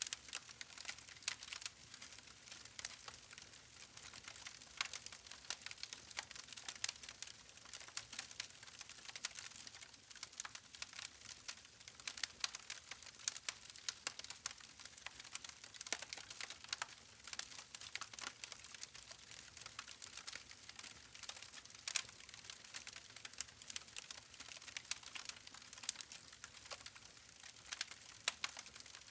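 Campfire crackling: burning logs giving off a steady stream of irregular sharp pops and snaps over a soft hiss of the flames.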